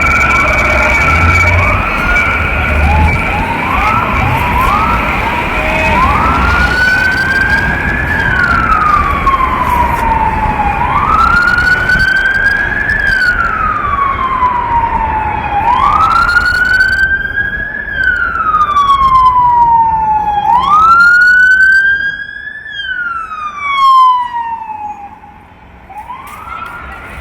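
Emergency-vehicle electronic siren: a fast yelp over a steady horn-like tone and low engine rumble for the first several seconds, then switching to a slow wail that rises and falls about every four to five seconds. The siren fades near the end as another rising wail begins.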